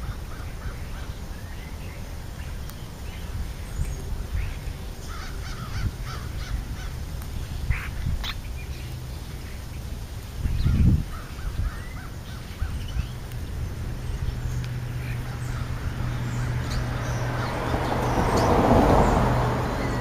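Birds giving short, scattered chirps and calls, with a single loud thump about eleven seconds in. Near the end a low rush of noise swells up and fades.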